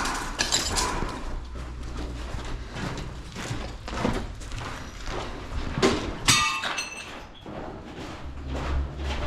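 Irregular knocks and thuds of hard objects being handled, with one ringing metallic clank about six seconds in, over a low steady hum.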